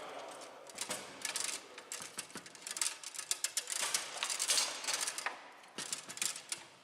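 Bonzini foosball table in play: a rapid, irregular clatter of sharp clicks and knocks as the ball is struck by the players' figures and hits the table walls, with the rods rattling.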